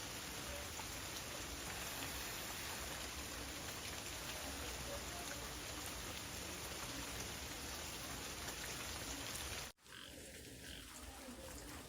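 Steady rain falling. It breaks off abruptly about ten seconds in and comes back quieter.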